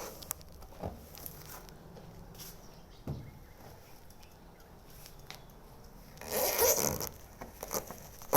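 Freshly washed laundry being handled: light clicks and rustles, then a brief loud swish about six seconds in.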